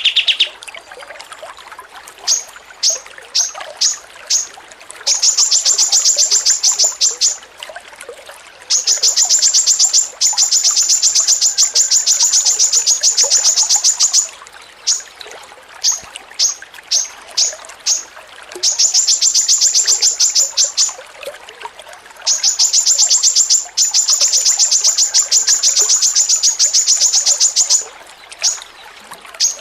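A songbird's rapid chattering song: long runs of sharp, high notes at about ten a second, each run lasting several seconds, broken by slower strings of single notes.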